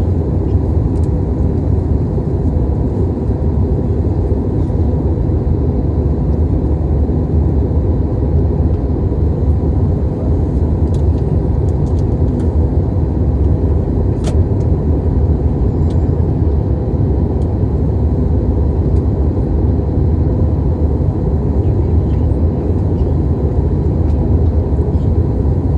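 Steady low rumble of an airliner's cabin in flight: engine and airflow noise running evenly, with a couple of faint clicks.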